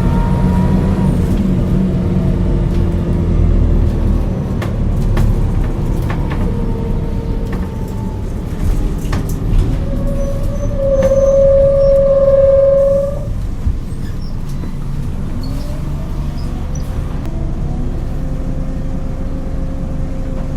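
Scania DC9 9-litre six-cylinder bus engine with ZF automatic gearbox, its note falling as the bus slows, then quieter. A steady tone sounds for about three seconds near the middle, and the engine note rises again as the bus pulls away, with scattered clicks throughout.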